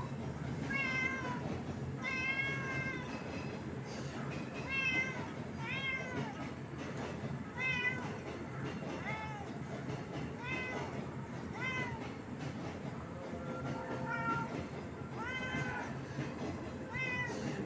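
A cat meowing over and over, more than a dozen high-pitched meows that rise and fall, each one to two seconds after the last. A steady low hum runs underneath.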